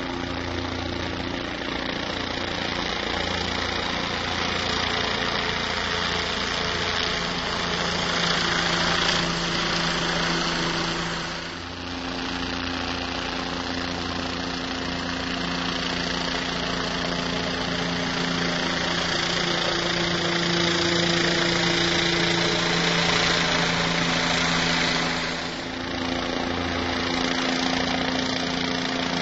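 Boat engine running steadily at an even speed, a low hum over a broad rush, with two brief dips in level.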